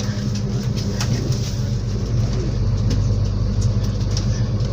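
Inside a MAZ-216 bus while it is under way: the engine runs with a steady low hum over road noise, with scattered small rattles and clicks.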